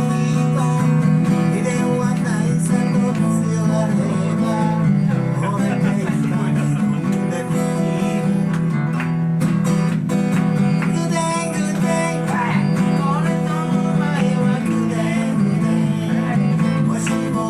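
Music played on acoustic guitar: plucked and strummed notes over a steady low accompaniment, continuing without a break.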